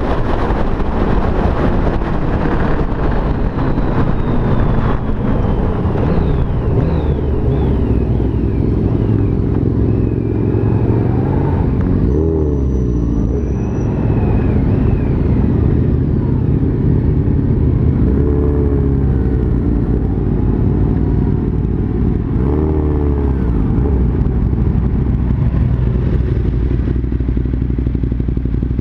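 Motorcycle riding at road speed, heard from on board: a steady engine drone with wind rumble, and other motorcycle engines climbing and falling in pitch several times as they rev or pass.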